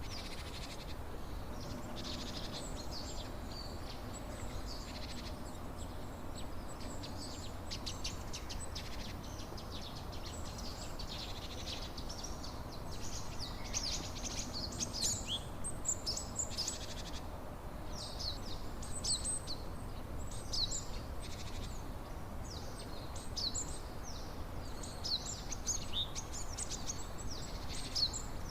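Small birds chirping over and over with quick, high notes throughout, over a steady low rushing noise in the background.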